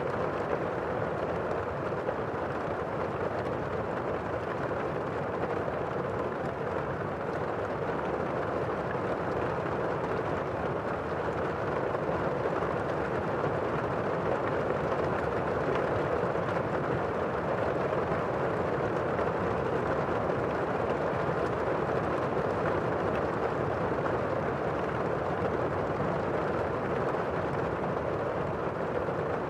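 Steady rain falling, an even noise without breaks or single standout drops.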